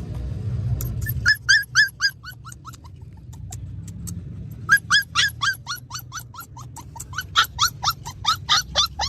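Puppy yelping in rapid, high, short cries, each dropping in pitch. A quick run of them comes about a second in, and a longer run follows from about halfway on.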